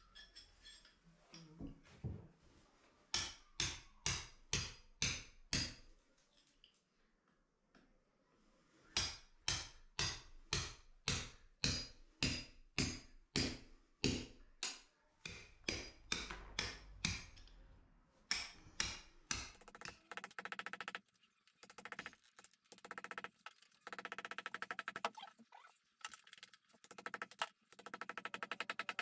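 Hammer blows on a chisel, chipping old material from the base of a masonry wall: two runs of sharp, evenly spaced strikes at about two to three a second, then quicker, quieter strokes near the end.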